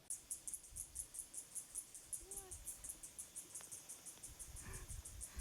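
An insect chirping in a fast, even, high-pitched pulse, about seven chirps a second, with a brief low rumble near the end.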